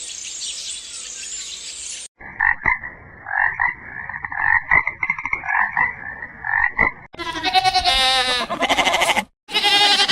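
Animal calls in three parts: a high hiss for about two seconds, then a run of short calls repeated in quick bursts, then two long wavering pitched calls near the end, split by a brief gap.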